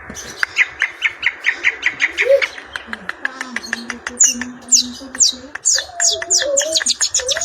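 Long-tailed shrike singing a fast, loud run of sharp repeated chips, about four a second. About four seconds in it switches to higher, down-slurred notes.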